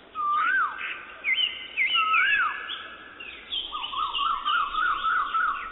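Several birds calling over a faint hiss. There are clear whistled notes that rise and fall, twice in the first half, and a fast wavering trill through the second half, with shorter higher chirps above.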